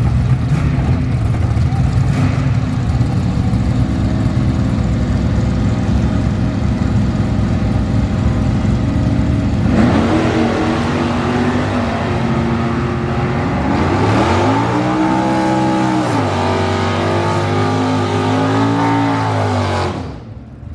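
Drag-racing Dodge Dart's engine running loud and steady at idle, then revved hard in a burnout, the revs rising and falling several times before cutting off sharply near the end.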